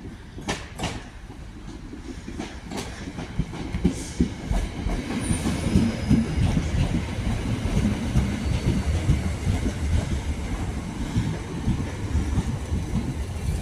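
A passenger train running along the platform, its wheels clicking over rail joints, with a low rumble that builds from about three seconds in and stays loud.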